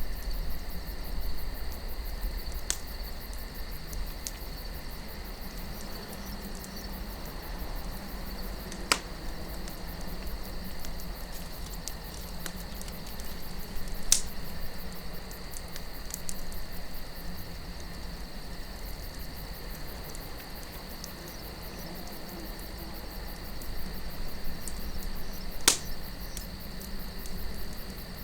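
Campfire crackling with scattered small ticks and three sharper pops of burning wood, over a steady chirring of crickets and a low wind rumble.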